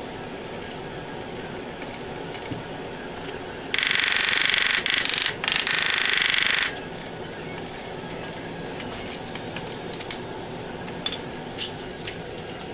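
Compressed air hissing from an air tool for about three seconds, with a brief break in the middle, over a steady background noise.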